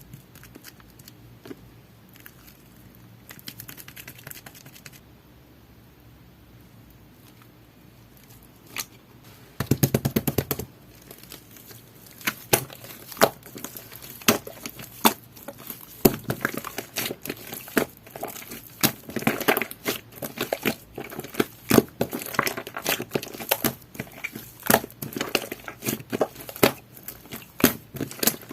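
Jelly-textured slime being squished and poked by hand, making sticky clicks and pops. For the first ten seconds there are only scattered small clicks. Then comes a loud quick run of clicks, and from about twelve seconds in the clicking is dense and steady.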